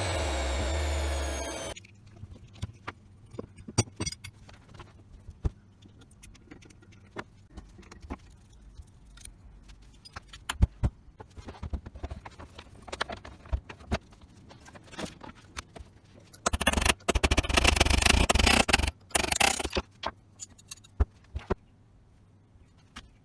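An electric motor whining, cut off abruptly about two seconds in. Scattered clicks and knocks of metal parts being handled follow, then near the end a loud harsh noise of about two seconds and a shorter one.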